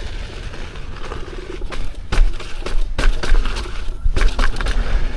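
Wind rumbling on the microphone, with irregular knocks and rattles from an electric unicycle riding over a rough dirt trail.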